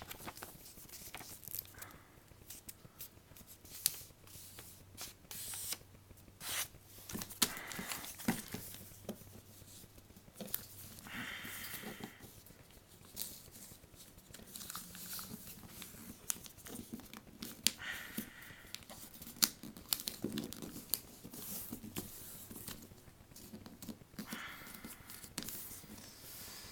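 A sheet of paper being folded backwards and creased flat by hand: irregular crinkling and rustling with scattered sharp crackles and taps.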